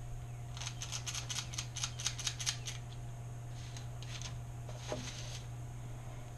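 A quick run of small clicks and scrapes from a spoon working cookie dough out against a bowl, with a few more clicks a couple of seconds later, over a steady low hum.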